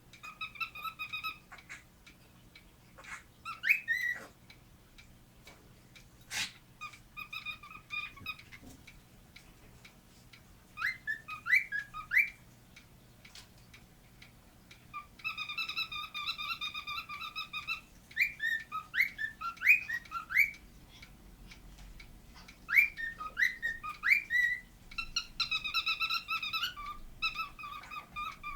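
A cockatiel singing. Stretches of fast, buzzy squeaky chatter alternate with groups of three or four quick rising whistles, repeated several times with short pauses between.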